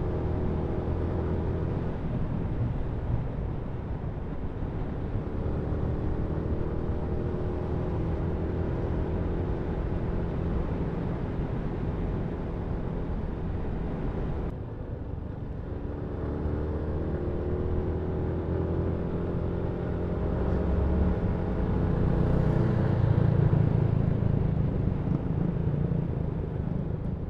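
Yamaha MT-125's 125cc single-cylinder engine running on the move, its pitch climbing and falling with the revs. The engine note drops briefly about halfway through, then climbs again and is loudest a little over three-quarters of the way in.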